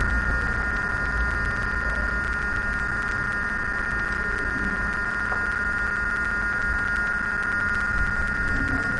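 A steady high whine with hiss and a low rumble underneath, holding at one level throughout.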